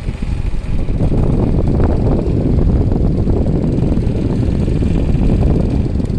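LG split air-conditioner indoor unit running with a loud, steady low noise and vibration from its body. The technician takes it for a slight wobble in the blower (cross-flow fan) wheel.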